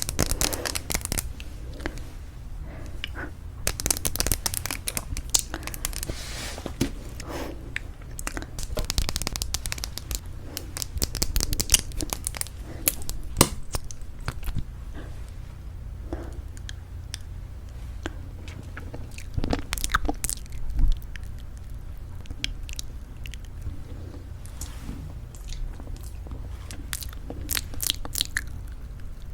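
Lipstick cases tapped and handled: quick, irregular clicks and light scratchy taps that come in clusters, over a low steady hum.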